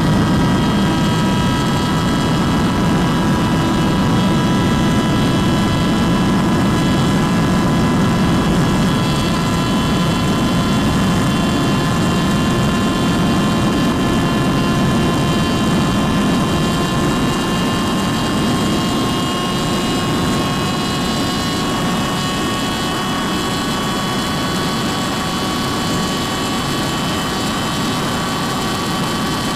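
Motorcycle engine held at high revs while riding, with heavy wind rush; its whine climbs slowly and steadily in pitch as the bike gains speed.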